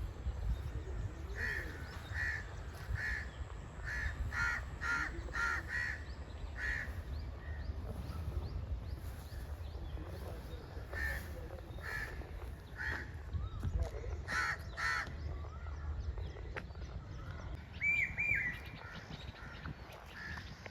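Crows cawing: runs of short, evenly repeated calls, one group in the first third and another in the middle, over a steady low background rumble.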